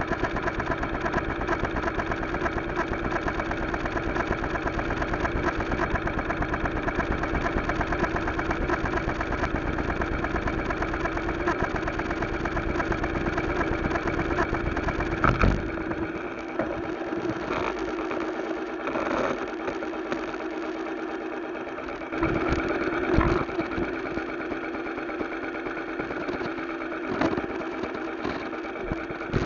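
Motorcycle engine running steadily. About halfway through the low rumble drops away while the engine tone carries on, and a few short knocks follow.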